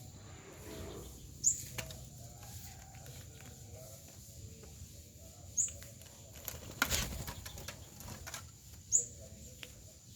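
Small bird giving three short, high chirps a few seconds apart, with a loud rustling burst of wing flapping near the middle.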